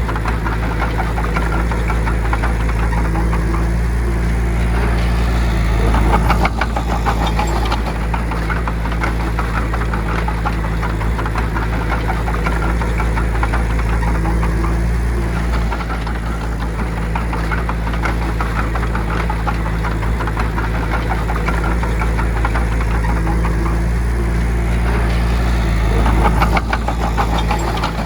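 Bulldozer's diesel engine running steadily with a dense rattling clatter, growing louder for a moment about six seconds in and again near the end.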